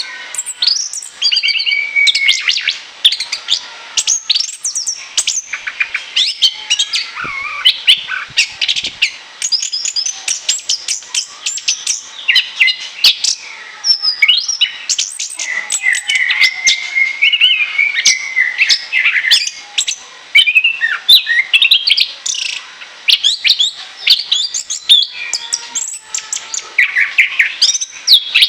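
Orange-headed thrush (anis kembang) singing a continuous, varied song: rapid runs of whistled and chattering notes, some sweeping up and down, with hardly a pause.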